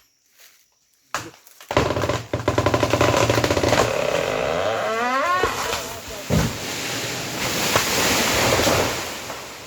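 A large felled tree going over: the trunk cracks in a fast run of snaps, creaks with a rising groan, then comes down through branches with a heavy thud about six seconds in and a long crashing rustle that fades.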